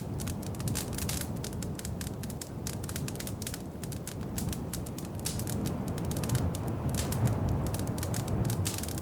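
Wood fire crackling in a fireplace: many small pops and snaps over a low, steady rumble.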